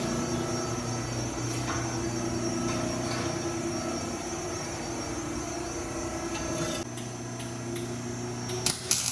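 Mercedes-Benz SL500 (R230) V8 with its mufflers deleted, idling steadily. A few sharp clicks near the end.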